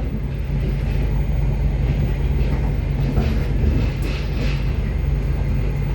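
Passenger train running, heard from inside the carriage: a steady low rumble of the wheels on the rails with a few faint knocks.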